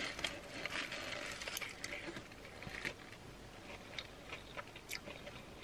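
A person quietly chewing a mouthful of crumbed fried chicken sandwich, with small irregular crunches and mouth clicks.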